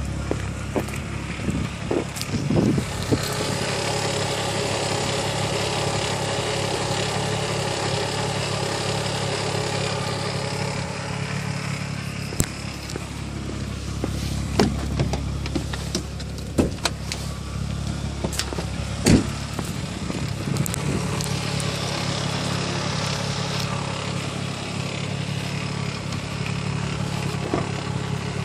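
Chrysler Crossfire's V6 engine idling steadily with a whine and an irregular ticking and tapping, the annoying noise the owner wants to track down. A few sharper ticks stand out about 12 and 19 seconds in.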